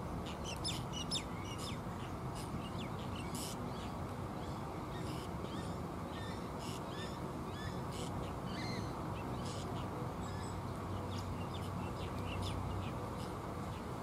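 Many short, high chirping bird calls, thickest in the first half, over a steady low rumble.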